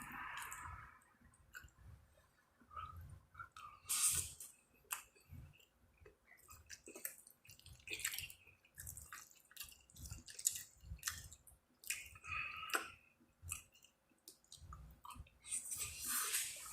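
A person eating chicken, lobster and shrimp alfredo close to the microphone: irregular wet chewing and smacking with sharp little clicks. Near the end a louder, steadier rustling noise sets in.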